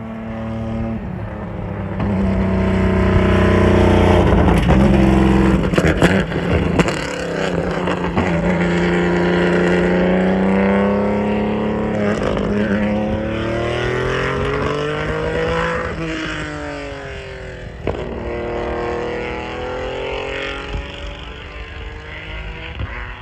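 Formula One car engine at high revs, its pitch climbing and dropping again and again through gear changes and downshifts. It is loudest about two to seven seconds in, with a few sharp cracks, and fades over the last few seconds.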